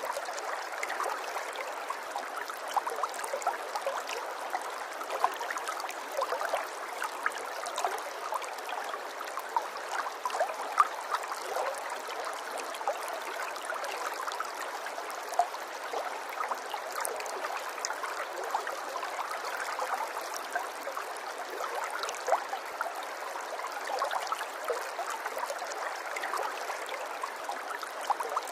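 Flowing water running steadily, as in a small stream, with many small splashes and gurgles through it.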